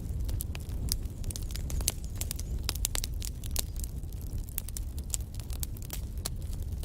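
Wood fire burning in a fireplace: irregular sharp crackles and pops from the logs over a steady low rumble of flame.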